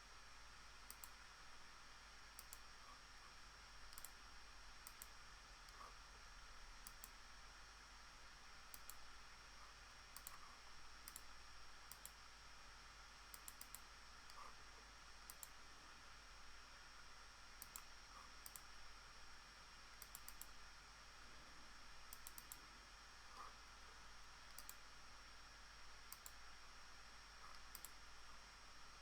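Faint computer mouse clicks, scattered single, double and triple clicks at irregular intervals, over quiet room tone with a faint steady high-pitched whine.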